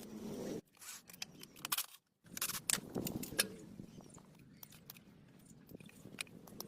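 Workshop handling noises: scattered clicks and scrapes, cut by a brief drop to silence about two seconds in.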